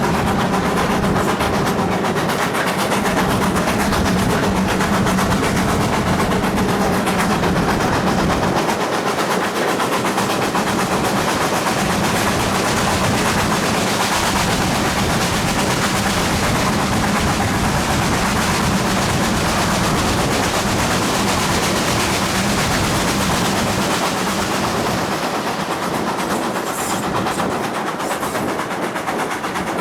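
Steam locomotive 7820 Dinmore Manor, a two-cylinder GWR Manor class 4-6-0, working hard with a rapid, continuous beat of loud exhaust chuffs over the rumble of wheels on rail, easing slightly near the end.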